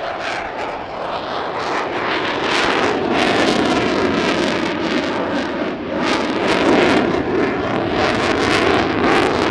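Aircraft engine noise from a plane flying over, a loud roar that builds over the first few seconds and then holds, with a faint gliding whine.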